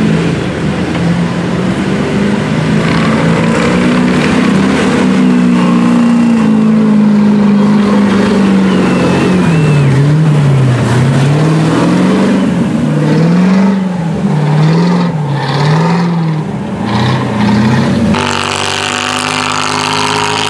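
Off-road 4x4 engines revving as they push through deep mud. The engine note rises and falls under the throttle, swinging up and down about once a second in the middle stretch, and changes abruptly to another engine near the end.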